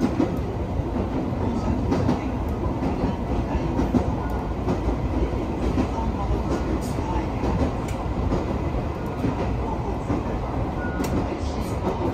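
Alpico Kōtsū Kamikōchi Line electric train running steadily, heard from on board: a continuous rumble of wheels on rail with scattered clicks.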